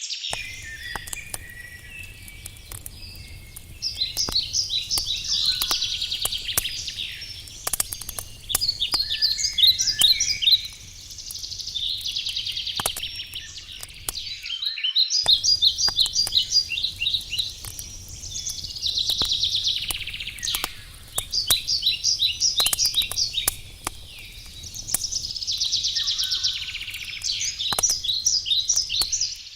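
Wood campfire crackling and popping under a songbird that sings a phrase of rapid trilled notes every two or three seconds; the bird song is the loudest sound. The sound cuts out briefly about halfway through.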